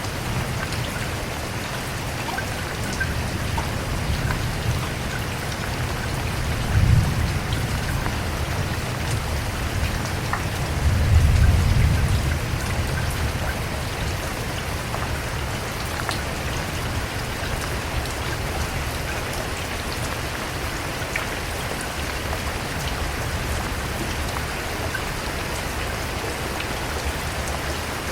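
Steady heavy rain falling on a surface, a dense even patter. Two low rumbles rise above it, a short one about a quarter of the way in and a longer one, lasting about two seconds, a little later.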